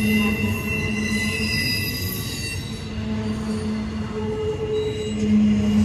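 Double-stack intermodal freight train rolling past at a steady pace, its cars rumbling. The wheels squeal in steady high tones that fade out about halfway through.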